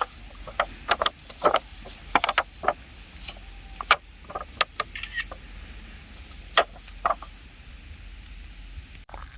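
A dozen or so irregular sharp clicks and knocks, over a steady low hum.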